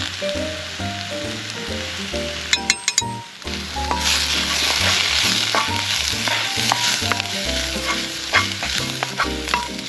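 Food frying in a pan, a steady sizzle that grows much louder about four seconds in, with a few sharp clicks just before. Background music with a bass line plays under it.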